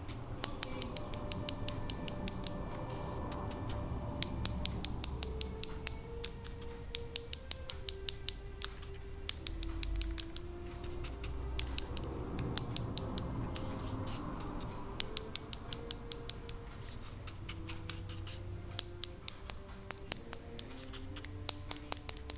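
Rapid bursts of light tapping, about eight to ten taps a second, as a cosmetic brush is tapped to sift activated charcoal powder onto soap. Soft music plays underneath.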